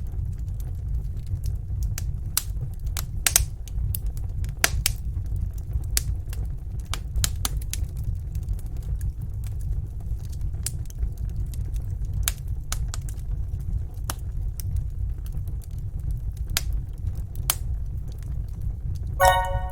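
Wood fire crackling in a fireplace: irregular sharp pops and snaps over a steady low rumble of flames. A brief musical tone comes in just before the end.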